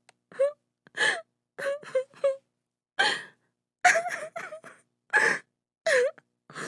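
A woman sobbing: a rapid string of short gasping sobs and brief wavering wailing cries, broken by sudden silent gaps.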